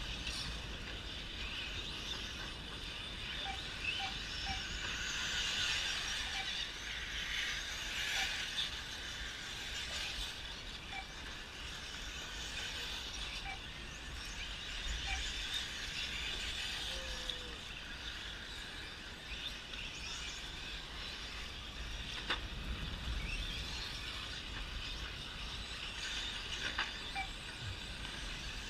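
Several electric 1/10 short course RC trucks running on a dirt track: a steady high whine and hiss from brushless motors and tyres, swelling and easing as the trucks pass. There are a few sharp knocks.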